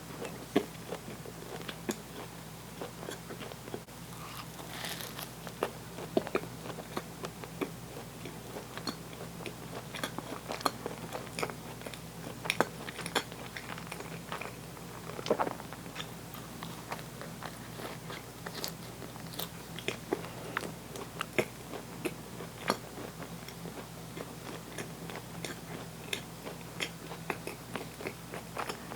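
A person chewing and biting food close to the microphone, with frequent small crisp crunching clicks between softer mouth sounds.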